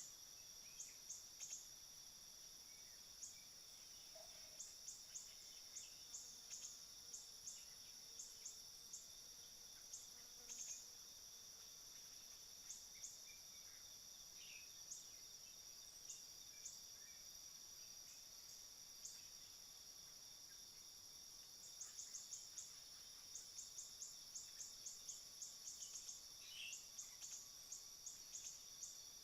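Faint, steady high-pitched drone of insects, with short high chirps repeating in quick clusters, busiest in the last third.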